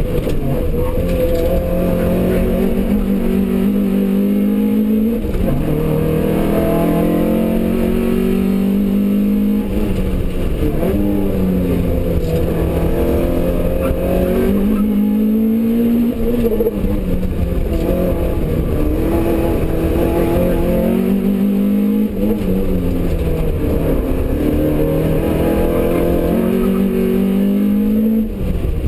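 Toyota Starlet's four-cylinder engine driven hard on a race circuit, heard from inside the cabin: the revs climb again and again under full acceleration and drop sharply at gear changes and lifts for corners. Near the end the revs fall and settle lower as the car eases off.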